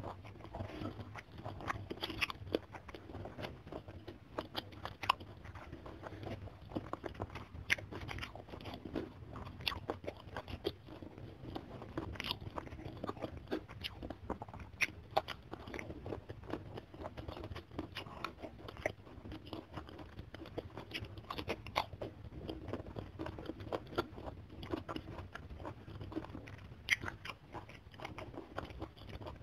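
Close-miked eating sounds: crisp crunching bites and chewing of a rice meal with petai beans and raw green vegetables, in a dense, irregular run of sharp crunches.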